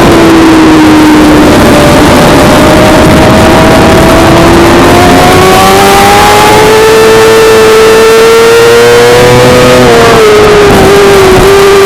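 Suzuki GSX-R600 inline-four sport-bike engine at high revs under way, over heavy wind rush. Its pitch climbs slowly for several seconds, then drops sharply about ten seconds in as the revs fall.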